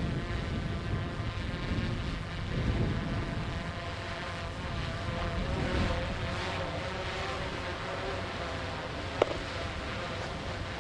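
Diesel engines of the tugboat Buchanan 12 running steadily as it pushes and tows barges, a steady hum of several pitched tones over a low rumble. A single sharp click about nine seconds in.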